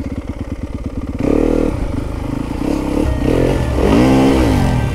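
Dirt bike engine idling with a rapid even beat, then revved up and down several times, the longest rev about four seconds in.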